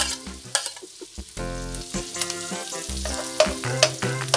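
Chopped salted egg sizzling as it is scraped off a plate into hot margarine and garlic in a wok, then stirred with a spatula. Several sharp clicks of the spatula against the plate and pan.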